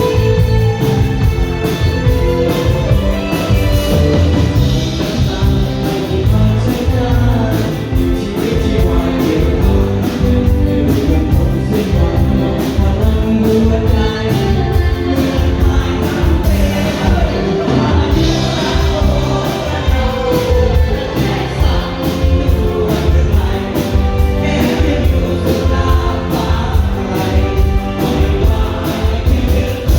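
Thai string-band pop-rock song: a singing voice over a band with a steady drum beat.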